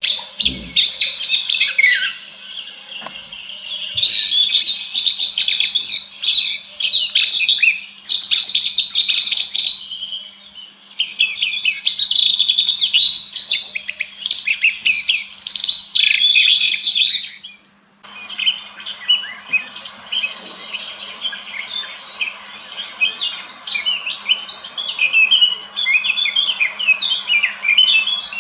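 Red-backed shrike singing: a rapid, chattering warble of quick notes in phrases of a few seconds, with a brief break about two-thirds of the way through before the song carries on.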